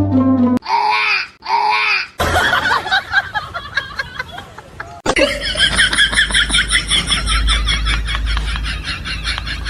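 A person laughing loudly and without stopping, starting about five seconds in, after a burst of music ends and two short identical sounds.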